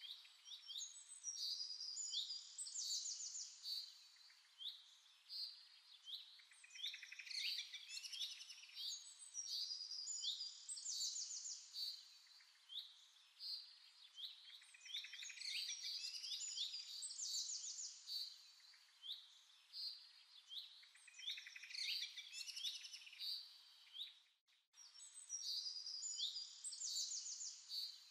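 Birds chirping and singing: phrases of quick, high chirps and fast trills that come and go every few seconds.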